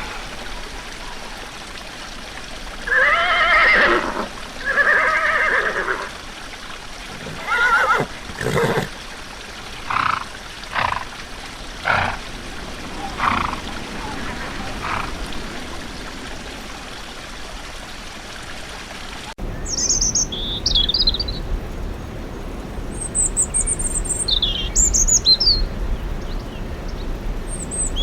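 A horse whinnying in two long, arching calls, followed by a run of shorter calls. About two-thirds of the way through the recording changes abruptly to small birds chirping and trilling in quick, high notes.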